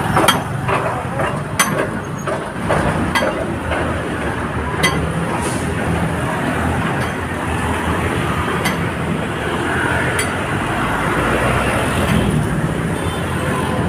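Road traffic on a busy street: a steady rumble of passing vehicles, with a series of sharp clicks, most of them in the first few seconds.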